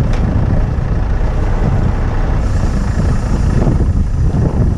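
Truck engine running, with strong wind buffeting the microphone.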